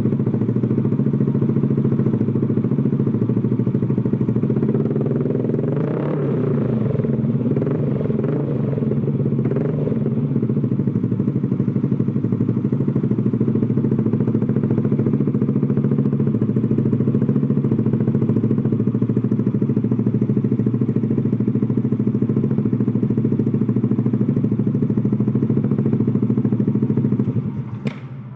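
Motorcycle engine running steadily at idle through an Austin Racing aftermarket racing exhaust, its pitch wavering briefly a few times about a quarter of the way in. The engine cuts off just before the end.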